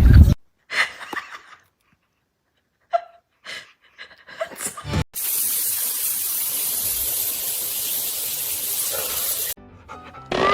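A few short, faint sounds with silent gaps, then a steady hiss lasting about four and a half seconds that cuts off suddenly.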